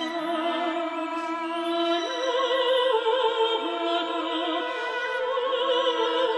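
Soprano singing a slow operatic anthem, holding long notes with wide vibrato over steady sustained accompaniment; a higher note comes in about two seconds in.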